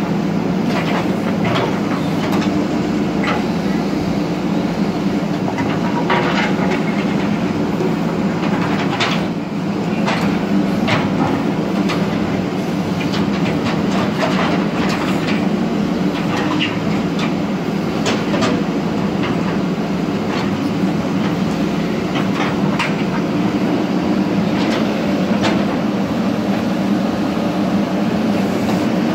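Diesel engine of a JCB earthmover running steadily under work, with scattered clanks and knocks over the drone as it pushes and levels stone.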